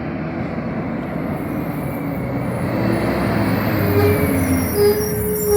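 Garbage truck's diesel engine running and drawing closer, getting gradually louder. A steady high-pitched whine starts about four seconds in.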